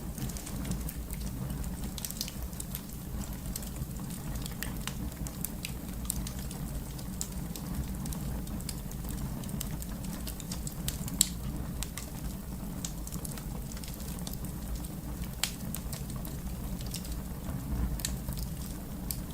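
Wood fire crackling: a steady low rumble of flames with irregular sharp pops and snaps, a louder pop about eleven seconds in and another near fifteen seconds.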